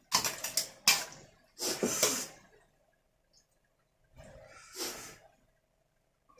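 Close-miked mouth sounds of a person eating seafood: four short, wet, noisy bursts with a pause of over a second before the last.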